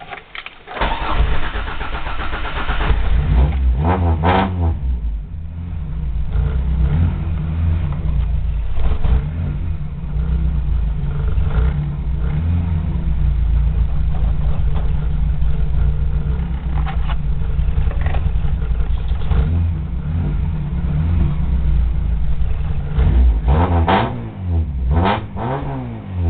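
Lada VAZ 21093's four-cylinder engine on a straight-through 51 mm exhaust with a 4-1 header and a Simota air filter. It starts about a second in and then idles, with a couple of throttle blips a few seconds after it starts and several quick revs near the end.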